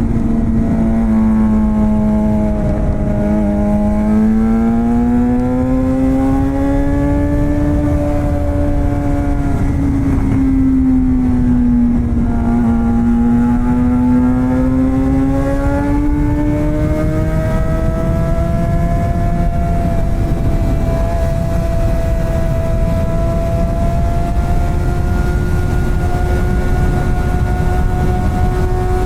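Suzuki GSX-R600 K7 inline-four with a straight-piped M4 exhaust and no catalytic converter, running at high revs under way. Its pitch sags and swells slowly twice, then climbs and holds steady near the end, over a low rush of wind and road noise.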